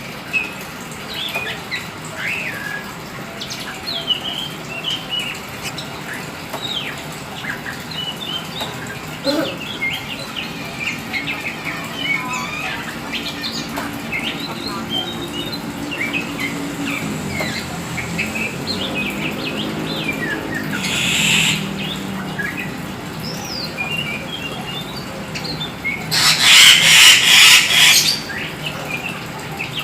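Black oriental magpie-robin singing a continuous run of short, varied chirps and whistles. Wings flap briefly about two-thirds of the way in, then in a louder, longer burst near the end.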